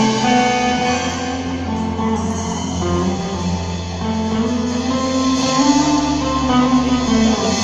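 A live band playing an instrumental intro: guitar leading, with sustained low bass notes underneath.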